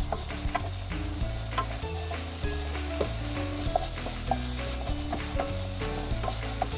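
Cucumber and egg stir-frying in a pan: a steady sizzle with frequent sharp clicks of a spatula against the pan, over background music.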